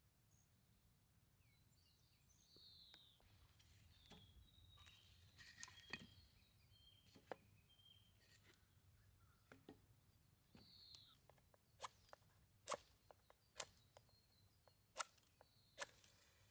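A quiet outdoor scene with faint bird chirps and scattered sharp clicks and snaps, which come louder and closer together in the last few seconds.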